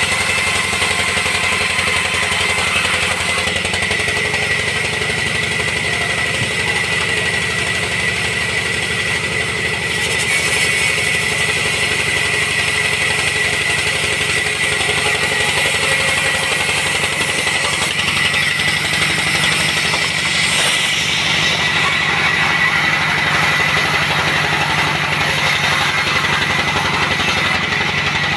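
Sawmill machinery running steadily: a constant engine note with a steady high whine over it.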